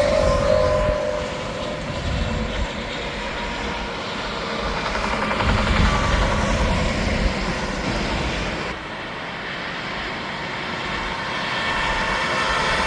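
Interstate traffic with tractor-trailers passing close by: a steady rush of tyre and engine noise that swells and eases as trucks go past, with a falling-pitch tone from a departing truck right at the start.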